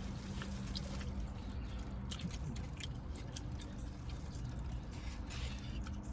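Close-up mouth sounds of someone eating: wet chewing with scattered small clicks and smacks, over a steady low hum.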